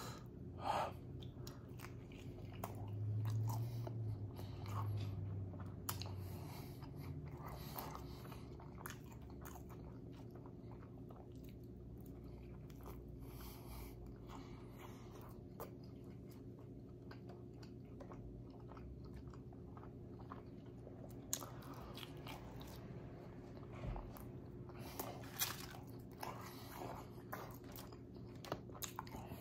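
Close-up chewing of a grilled steak quesadilla, with wet mouth clicks, smacks and a few crunches. A low hum swells a few seconds in, and a faint steady hum runs underneath.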